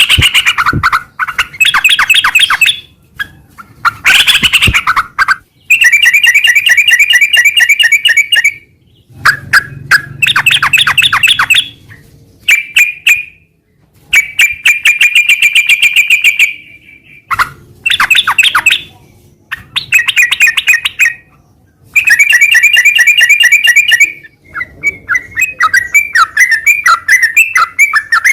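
Yellow-vented bulbul (trucukan) singing loudly in repeated chattering phrases of rapid notes. Each phrase lasts one to three seconds, with short pauses between. Near the end it breaks into a quicker, wavering run of notes.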